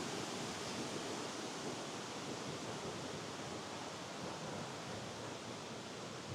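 Steady, even rushing of flowing stream water.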